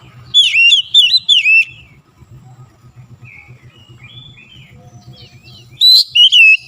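Oriental magpie-robin (kacer) singing: loud phrases of swooping, whistled notes about half a second in and again near the end, with softer warbling between. A faint low hum runs underneath.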